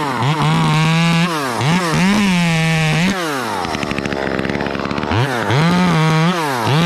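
Small two-stroke chainsaw revved to full throttle in short bursts, each dropping back to idle. There are several quick bursts, a couple of seconds of idling, then two more bursts near the end.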